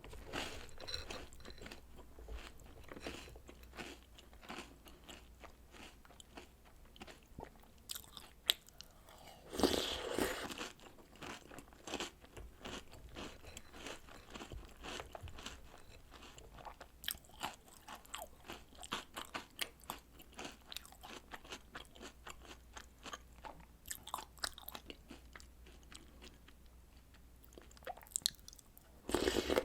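Close-miked crunching and chewing of milk-soaked chocolate snacks and cereal, with many irregular small crunches. There are louder bursts about ten seconds in and again near the end.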